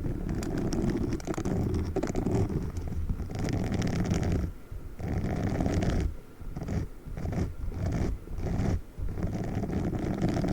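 Pink spiky sponge squeezed and rubbed right against the microphone: a dense, low rustling scratch in long strokes, then a run of short quick strokes about two-thirds of the way in.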